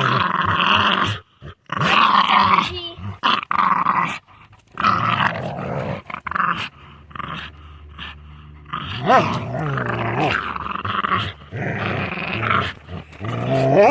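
Two dogs growling at each other as they wrestle in a rough fight, in repeated bursts of a second or two. A short rising cry breaks through about two-thirds of the way in and again near the end.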